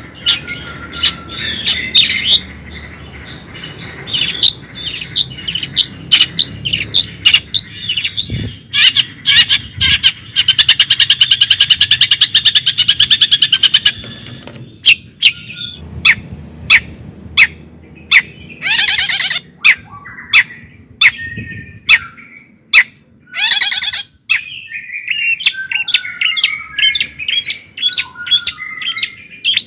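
A bird calling close by: rapid sharp chirps, a fast buzzing trill lasting about four seconds a third of the way in, and two harsh squawks later on.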